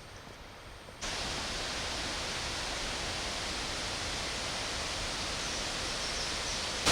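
Waterfall rushing as a steady, even roar of falling water, cutting in abruptly about a second in after a faint outdoor background.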